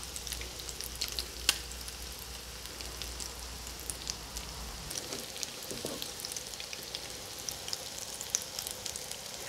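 Breadcrumb-coated Atka mackerel fish patties shallow-frying in oil over medium heat: a steady sizzle with many small scattered pops and crackles.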